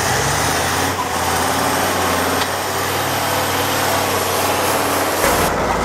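Off-road trial truck's engine running loudly under load, with a wide rushing noise over a low engine hum; near the end the sound switches to a deeper, heavier engine hum.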